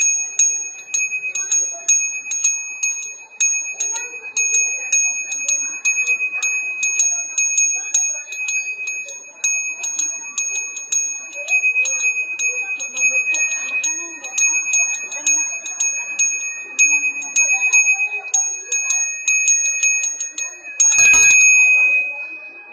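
Balinese genta bajra, a bronze Hindu priest's hand bell, being rung continuously, its clapper striking about three times a second over a steady high ringing tone. Near the end there is a louder knock, and the ringing fades away.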